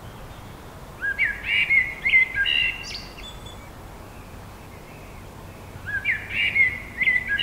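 A songbird singing: a quick phrase of whistled, sliding notes starts about a second in and is repeated in much the same form near the end, over a steady low background hiss.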